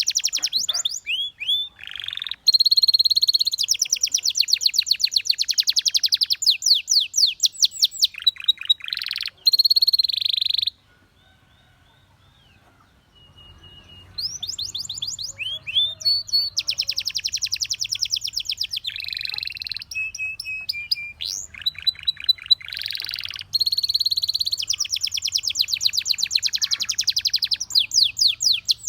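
Domestic canary singing: long runs of rapid trills and rolled, evenly repeated notes mixed with sharp chirps and short whistled tones. The song stops for about two seconds near the middle, then starts again.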